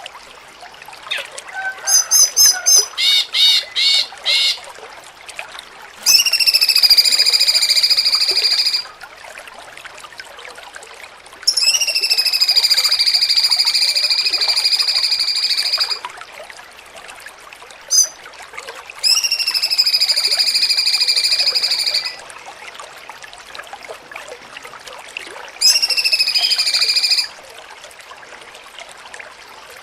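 Cucak cungkok songbird singing: a quick run of about six short notes, then four long, steady held calls of two to four seconds each with pauses between, over a faint steady hiss.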